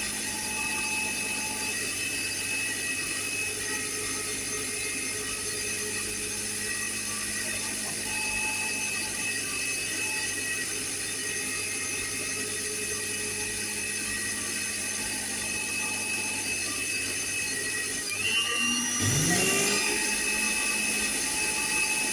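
Electric blender running steadily with a high whine, blending a coconut milk smoothie. Near the end it cuts out briefly and then spins back up, its pitch rising.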